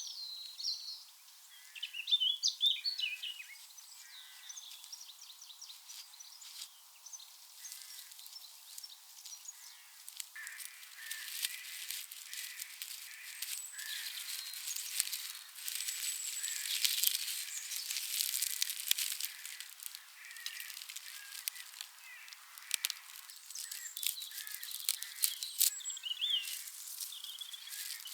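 Small birds chirping in short calls near the start and again near the end, over repeated dry crackling and rustling clicks that are densest in the middle.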